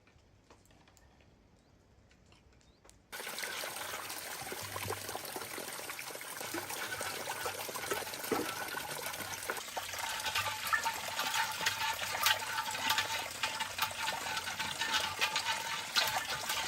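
Running water, a steady splashing hiss with many small ticks, starting abruptly about three seconds in after near quiet.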